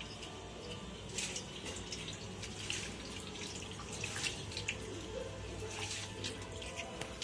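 Air-compressor parts being washed by hand in diesel: irregular liquid splashing and dripping with small clinks, over a steady low hum.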